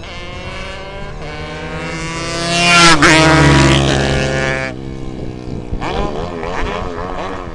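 Two racing motorcycles, a Honda Titan 150 four-stroke single and a Yamaha RD 135 two-stroke, at full throttle, rising in pitch and growing louder. They pass loudest about three seconds in, where the pitch drops, then fade. Wavering engine sound follows near the end.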